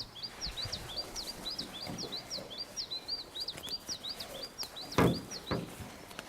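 A songbird singing a fast run of short, high chirping notes, about four or five a second, that stops near the end. About five seconds in there is a single sharp knock, the loudest sound.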